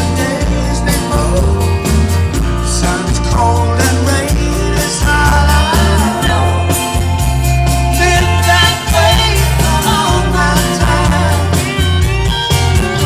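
Live rock band playing with a lead vocal singing over a heavy, steady bass and drum beat, as heard from the audience at a concert.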